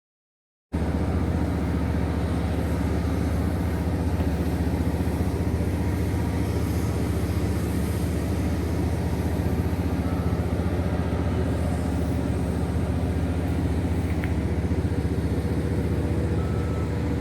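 Steady drone of running machinery, an engine-like low hum with a constant pitch that does not rise or fall. It starts abruptly just under a second in.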